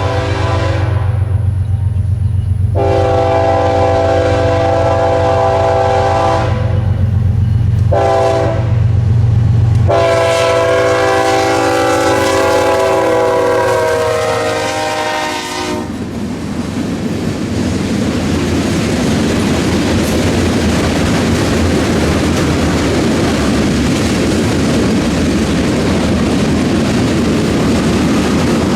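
Diesel freight locomotive's air horn sounding long, long, short, long, the standard grade-crossing warning, over the engine's low rumble as it approaches. About sixteen seconds in the horn stops and the train's cars roll past with steady wheel noise and clickety-clack on the rails.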